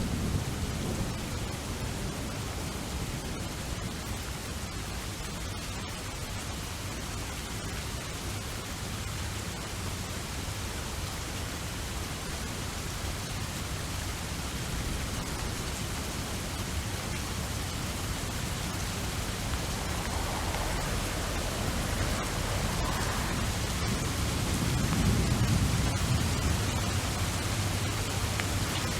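Steady rain ambience, a constant hiss of rainfall, with low rumbles of thunder at the very start and swelling again near the end.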